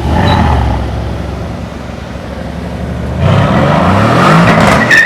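A car engine, loud at first, then accelerating hard about three seconds in, its pitch climbing steadily for a second and a half.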